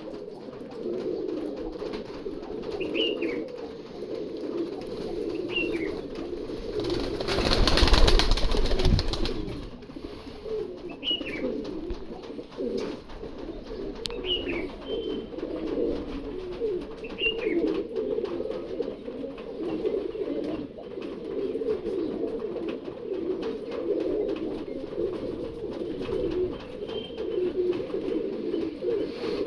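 A flock of domestic pigeons cooing continuously, many low coos overlapping. This is the cooing of pigeons in breeding condition. A few short high chirps come now and then, and a loud rushing burst of noise lasts about two seconds, around a quarter of the way in.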